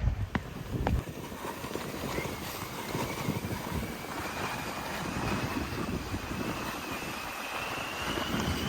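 Wind gusting across the microphone in a snowstorm: a steady rush with buffeting low rumble, and a faint thin whistle creeping slowly up in pitch from about two seconds in.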